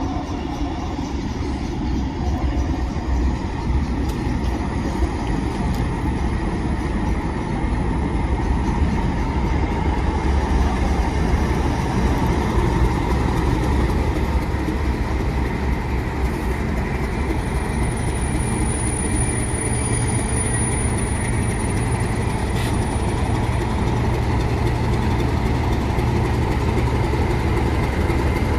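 Class 37 diesel locomotive on a test train, its engine running steadily with a deep, continuous sound. A faint high whine sounds for a few seconds past the middle.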